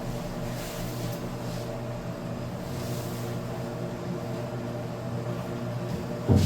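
A steady mechanical hum, with two short hissing rustles in the first three seconds and a single sharp knock near the end.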